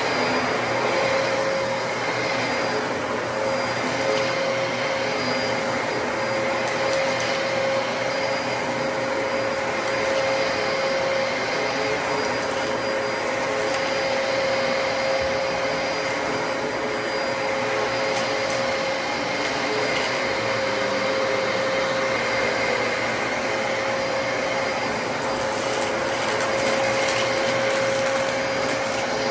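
Dyson DC33 upright vacuum cleaner running steadily: an even rush of air under a constant motor whine.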